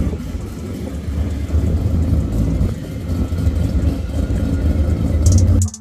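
Mazda RX-7 rotary engine idling, loud and unsteady.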